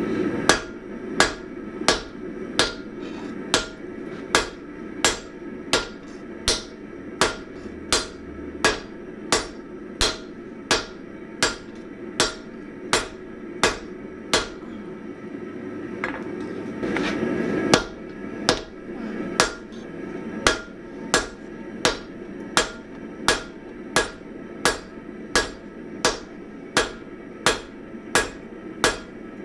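Hand-hammer blows on hot 1045 steel on an anvil while drawing out an axe head, struck steadily about one and a half times a second, with a pause of a few seconds about halfway through. A steady low rushing noise runs underneath.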